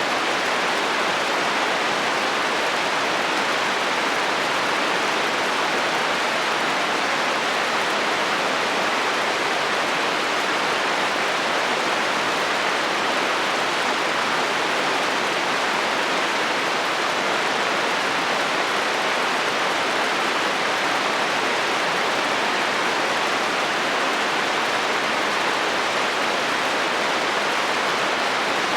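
Heavy rain falling steadily on a metal roof: an even, unbroken hiss with no thunder.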